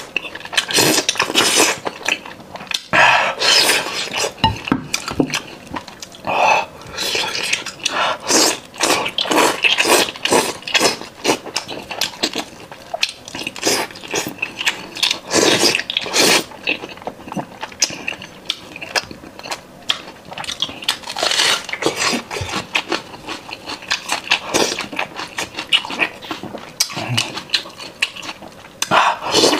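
A person eating close to the microphone: chewing and biting, heard as a dense, irregular run of short clicks and smacks.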